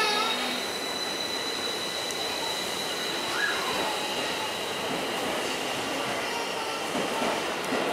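Tokyo Metro 16000 series electric train pulling out and running past the platform: wheel and rail running noise with a steady high-pitched whine.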